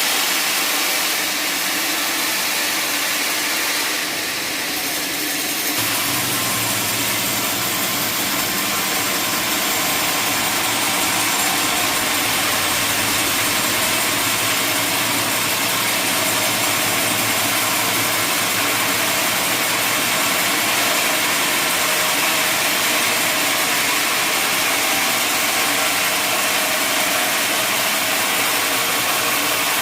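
Sawmill machinery running steadily, with a deeper hum coming in about six seconds in.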